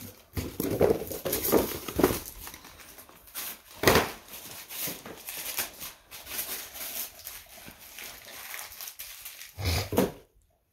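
Christmas wrapping paper being torn and crumpled in irregular bursts, with a sharp loud crackle about four seconds in and a heavier thump near the end before the sound cuts off suddenly.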